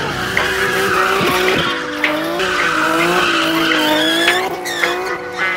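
Car engine revving hard at high revs, its pitch wavering up and down, with tyres screeching as the car spins in a tight circle.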